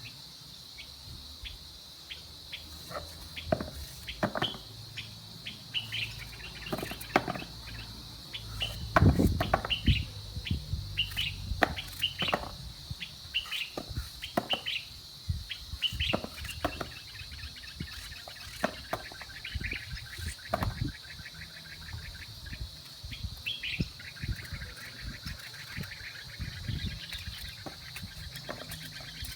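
Birds chirping and trilling over scattered clinks and knocks of kitchen work, the loudest knocks about nine seconds in.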